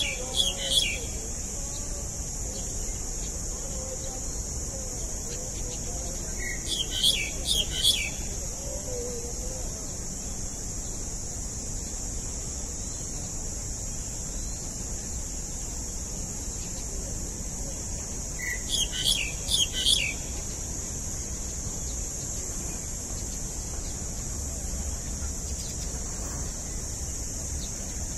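A bird sings three short bursts of rapid chirps, spaced several seconds apart, over a steady high-pitched hiss.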